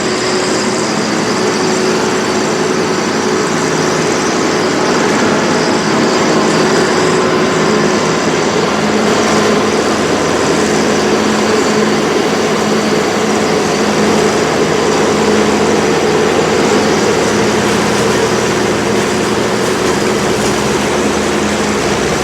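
A farm tractor and its pull-type maize forage harvester running steadily while chopping, with a constant hum under a dense rush of machine noise.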